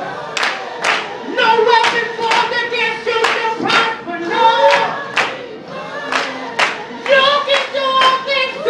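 Gospel singing by several voices over steady rhythmic hand clapping, about two claps a second.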